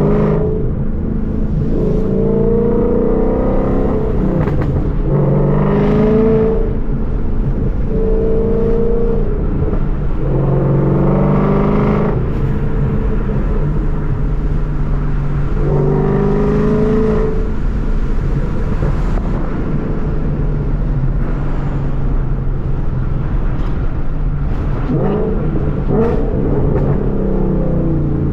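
A 2014 Ford Mustang GT's 5.0 Coyote V8 and exhaust pulling repeatedly. The engine note rises and drops back about six times as the car accelerates and lets off, over a steady low drone.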